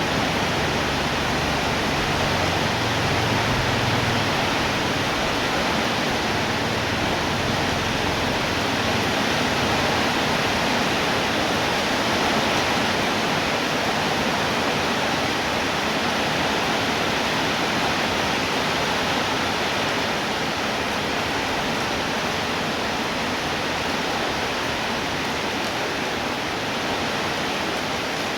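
Steady heavy rainfall, an even hiss that does not change. A low rumble sits under it for the first several seconds.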